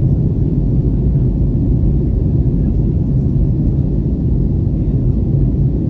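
Steady low rumble of an Airbus airliner heard from inside the cabin: engine and airflow noise.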